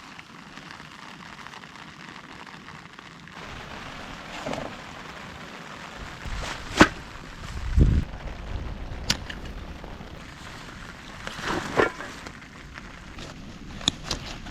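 Steady rain hiss, broken by a few sharp knocks and rustles and one short, dull low thump about eight seconds in.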